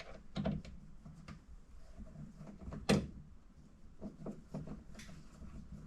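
Scattered light knocks and clicks of interior trim pieces being handled and pressed into place against the car's body, with one sharper click a little past halfway.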